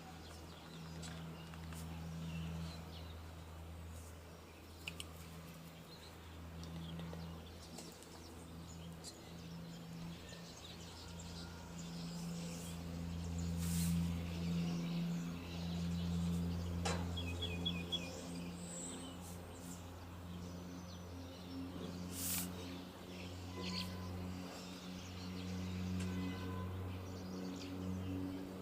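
Outdoor ambience: small birds chirping now and then over a steady low hum that swells and fades through the middle.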